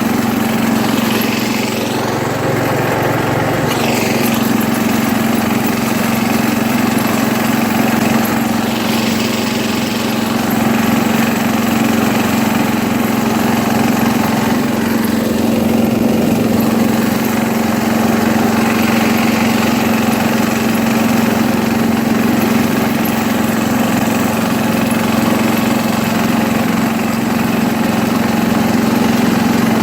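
1973 International Harvester Cub Cadet 86 garden tractor's engine running steadily while driving, with small shifts in its sound a few times.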